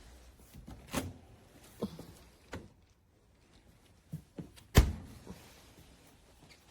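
A series of light knocks and bumps, with one sharp, louder thump about five seconds in.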